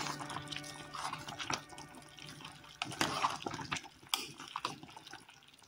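A pot of green bananas and dumplings boiling on a gas stove: water bubbling with irregular small pops and clicks.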